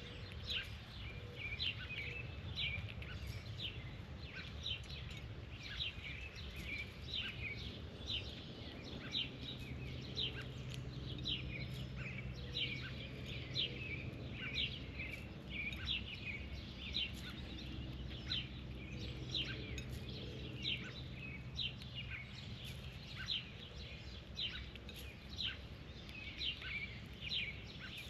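A bird chirping over and over, short falling chirps about one or two a second, over a steady low background rumble.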